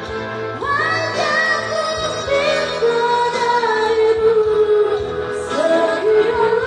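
Music: a slow Indonesian pop song, with a voice singing long held, sliding notes over the accompaniment.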